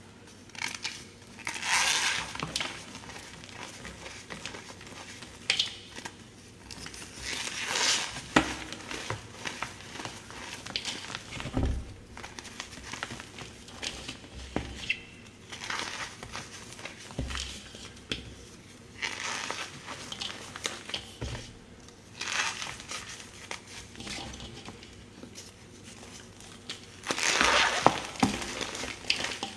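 Slabs of gym chalk crushed and crumbled by hand, in repeated crunching squeezes with small crackles between them. The loudest squeezes come about two seconds in, about eight seconds in, and near the end.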